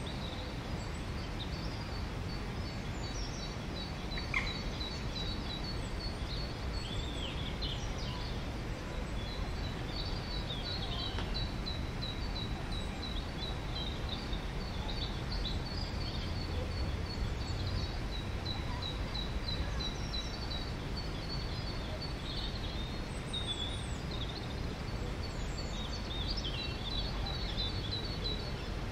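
Several songbirds singing, with rapid runs of high repeated notes and short chirps overlapping, over a steady low background rumble.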